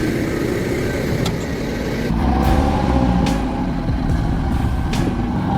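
Heavy vehicle's diesel engine running hard and steadily, with the sound changing about two seconds in and a few sharp clicks over it.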